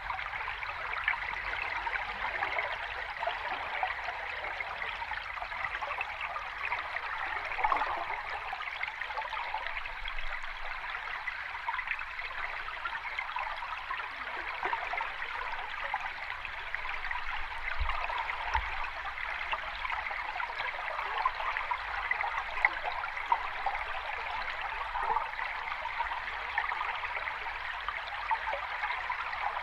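Sea water washing and fizzing in a steady, even wash, with no distinct breaking waves.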